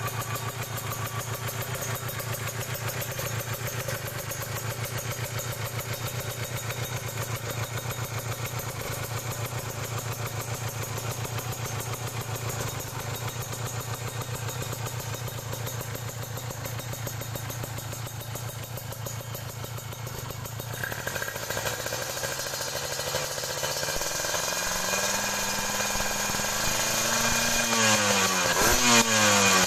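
Kawasaki Ninja 150 RR two-stroke single-cylinder engine running steadily at idle through an aftermarket racing exhaust; about two-thirds of the way in the revs start to climb, and near the end the throttle is blipped in quick rises and falls, getting louder.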